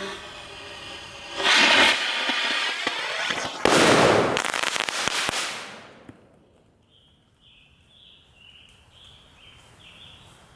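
Homemade rocket launcher firing its last round: a sudden rush of rocket-motor noise about a second and a half in, then a louder blast two seconds later that dies away over about two seconds. The rocket stuck in the tube and blew the end off the launcher.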